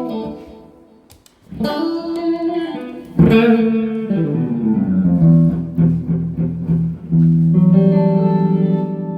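Electric guitar played through an amplifier during a sound check: notes struck and left ringing, a note sliding down in pitch a few seconds in, then a long held note with vibrato near the end.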